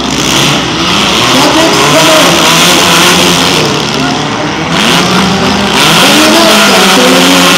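Several four-cylinder demolition derby cars revving their engines, the pitch rising and falling repeatedly, over a dense wash of noise from the crowd.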